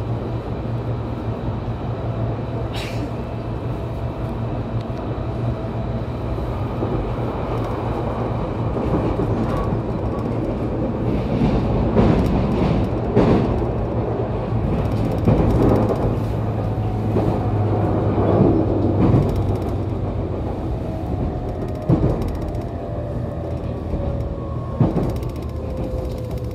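JR Kyushu 813-series electric train running, heard inside motor car KuMoHa 813-1: a steady rumble with sharp knocks from the rails, while the traction motor tone falls slowly near the end as the train slows on the approach to a station.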